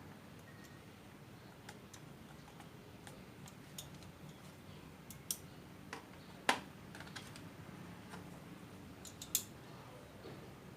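Scattered light clicks and taps of hard parts being handled while an egg incubator is cleaned out, with a sharper knock about six and a half seconds in and two more near five and nine and a half seconds.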